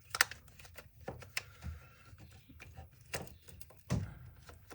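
Scattered clicks and light knocks of drill parts being handled and fitted together, with the loudest click about a fifth of a second in and a duller thump near the end.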